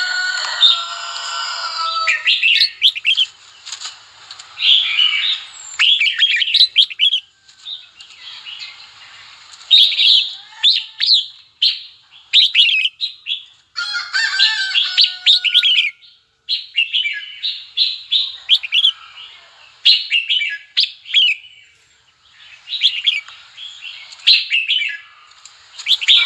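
Red-whiskered bulbul singing: short, bright, warbling phrases repeated over and over with brief pauses between them, the kind of lure song played to excite bulbuls and call in wild ones.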